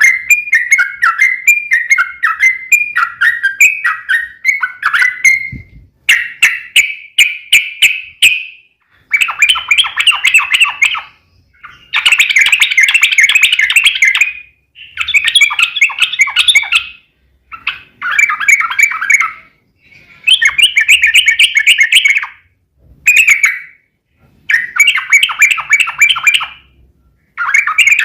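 Yellow-vented bulbul (trucukan) singing. A run of short chirping notes is followed by repeated long, rapid chattering trills, each lasting one to three seconds with short pauses between them.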